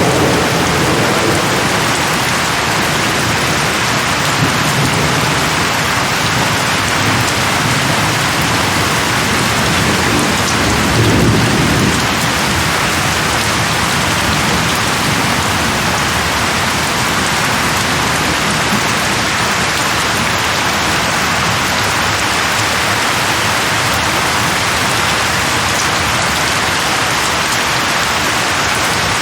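Steady rain falling on leaves, with low rolls of thunder. The strongest rumble comes about eleven seconds in.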